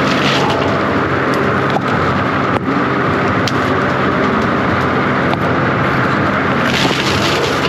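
John Deere 333G compact track loader running steadily at working speed, with a hiss over the engine note and a few sharp clicks.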